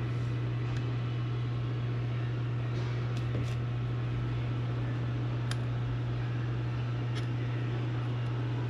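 EZ-Go golf cart's 350 cc single-cylinder four-stroke engine running at a steady speed, a constant hum, with a couple of sharp clicks in the second half.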